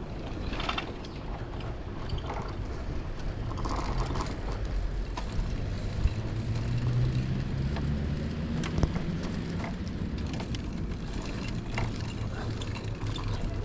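Riding noise of a bicycle on the move: wind rumbling on the microphone with tyre and road noise and scattered clicks and rattles from the bike. A low hum swells in the middle and fades again.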